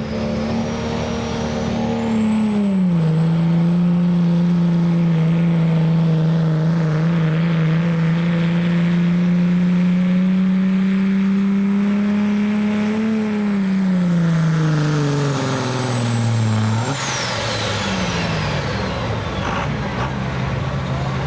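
Turbocharged diesel pickup truck pulling a sled at full throttle, with a high turbo whistle over the engine. Engine speed dips about two seconds in, slowly recovers, then drags down over several seconds as the sled's weight bogs it. About seventeen seconds in the throttle is let off: the turbo whistle winds down and the engine drops to a lower idle.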